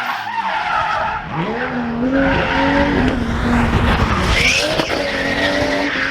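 A drift car's engine revs up sharply about a second in and is held high, with tyres skidding and spinning; the car has run off the track and got beached.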